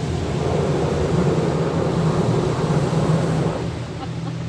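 Automatic car wash working over the car, heard from inside the cabin: a steady rushing wash over a low machine hum, swelling in the middle and easing near the end.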